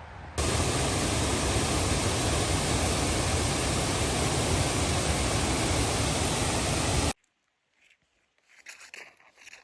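Steady, loud rush of a waterfall, coming in suddenly just after the start and cutting off abruptly about seven seconds in.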